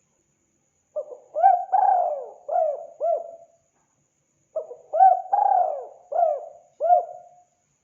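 Spotted dove (tekukur) cooing: two phrases of about five low, rounded coo notes each, a couple of seconds apart, as used in a recording to lure wild doves.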